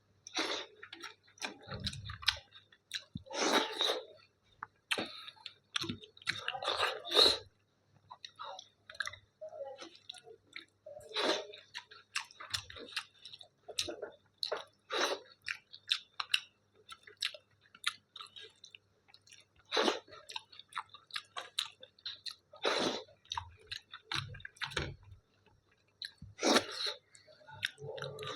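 A person chewing mouthfuls of dal and rice, with uneven mouth clicks and short chewing bursts.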